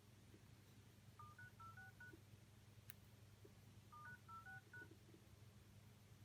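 Faint touch-tone keypad beeps from an iPhone 7 Plus dial pad: a quick run of about six tones about a second in, then another run of about six about four seconds in, with a single click between them.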